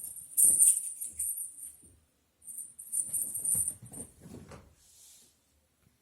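Bell on a cat toy jingling as cats bat and pull it, in two bursts of about two seconds each, with soft knocks from the toy and paws.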